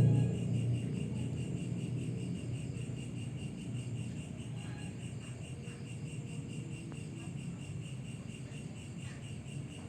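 Insects, likely crickets, chirping steadily in a fast, even pulse. A low rumble is loudest at the start and fades within the first second or so.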